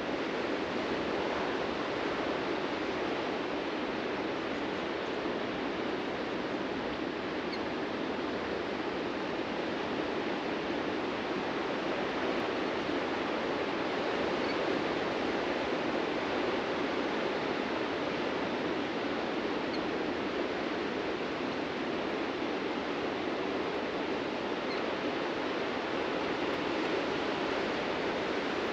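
Ocean surf washing on a beach, a steady rushing noise with no single wave standing out.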